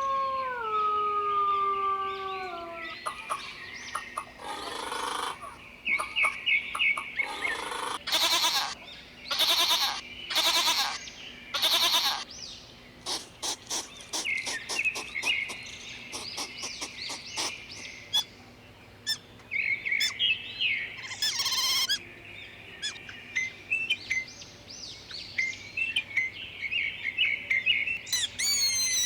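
Chickens and small birds calling: short high chirps repeat through the clip, with runs of louder, sharp calls between about 8 and 12 seconds. A goat's drawn-out bleat fades out in the first few seconds.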